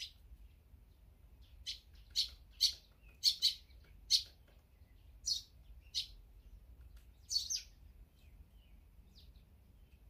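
Bird calling: a run of about ten short, sharp, high chirps, irregularly spaced over several seconds, with a few fainter ones near the end.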